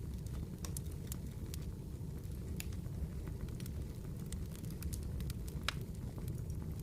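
Campfire crackling: irregular sharp pops and snaps of burning wood over a steady low rumble, with one louder pop late on.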